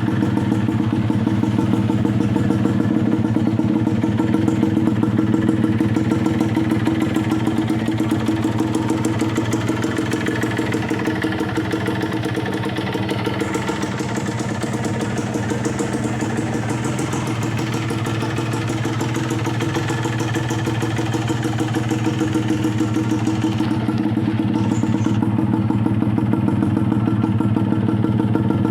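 Yamaha DT125's single-cylinder two-stroke engine idling steadily, with a slight dip in loudness midway.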